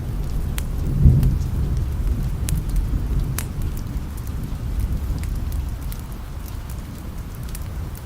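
Steady rain with the low rumble of distant thunder, which swells about a second in. Scattered sharp ticks run through it.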